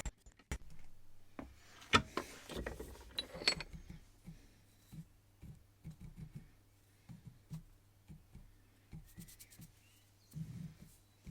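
Small metal parts and hand tools being handled on a workbench: a couple of sharp knocks and some scraping about two to four seconds in, then a string of light clicks and taps, over a faint steady hum.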